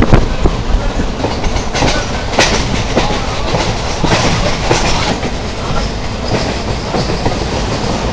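Moving train heard from inside the carriage: a steady rumble and rattle of the coach, with irregular sharp clacks of the wheels over the rail joints, the strongest about two and a half seconds in.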